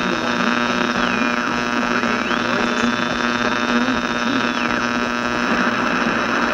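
Old AM radio static and interference: a steady hum under hiss, with a high whistling tone that slides down about a second in, climbs back about two seconds in and slides down again near five seconds. The hiss thickens near the end.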